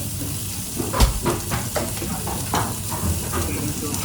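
Food sizzling as it fries in a pan, a steady hiss, with several sharp knocks and clatters of kitchen utensils or pans. The loudest, a heavy knock, comes about a second in.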